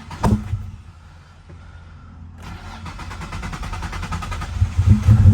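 Car engine turned over on the starter and firing on starting fluid sprayed into the intake, since the fuel pump is not delivering fuel. A click at the start, then a low rumble that grows steadily louder and is loud near the end as the engine runs.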